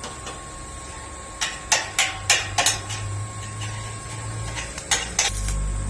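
Hammer striking metal: about five sharp blows in quick succession, then two more a few seconds later, with a low hum between them.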